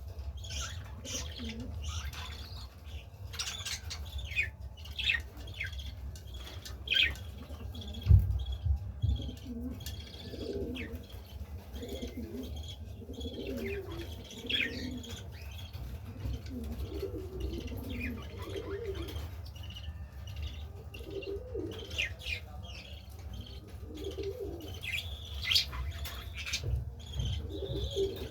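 Pigeons cooing again and again, with many short high chirps of smaller birds over them and a steady low rumble beneath. A single sharp thump comes about eight seconds in.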